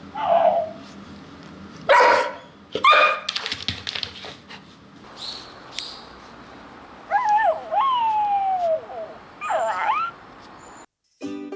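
Dog-like whimpers and yips, several short rising and falling whines with two louder, harsher yaps about two and three seconds in and a long falling whimper around the eighth second.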